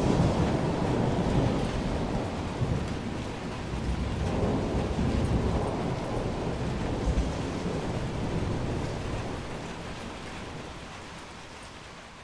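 Thunder rumbling low over steady rain, the rumble rolling in a few swells, then fading away over the last few seconds.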